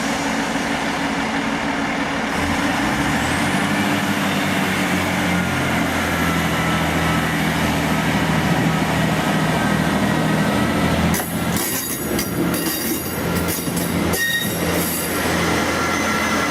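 Passenger train at a station platform: a steady low engine drone whose note rises about three seconds in, with a faint high whine climbing alongside. From about eleven seconds in, irregular clattering and knocking join the drone.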